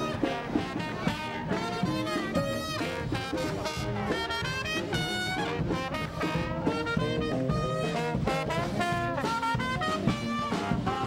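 Upbeat swing-style jazz with brass: trumpets, trombones and saxophone playing over a steady beat.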